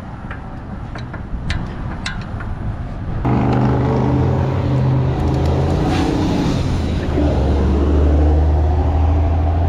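Road traffic close by: a few light clicks, then from about three seconds in a motor vehicle's engine running loud and steady with a low drone.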